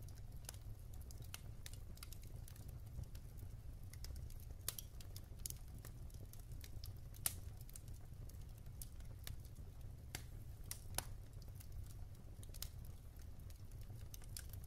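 Wood fire burning in a fireplace: irregular crackles and sharp pops of the burning logs over a low steady rumble of the flames, with a louder pop about seven seconds in.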